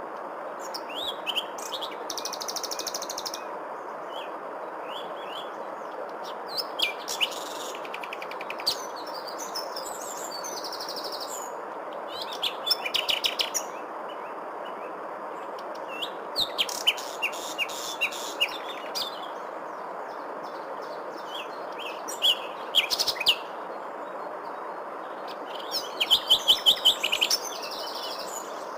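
Songbirds chirping and trilling in short bouts, with rapid runs of repeated notes, over a steady hiss; the loudest burst of chirps comes near the end.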